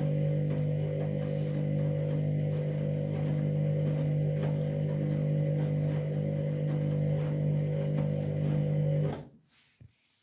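Candy washing machine humming steadily during its wash cycle, its pump or water valve running, then cutting off abruptly about nine seconds in.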